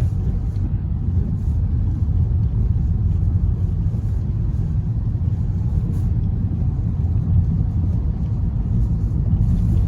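Car driving, a steady low road and engine rumble.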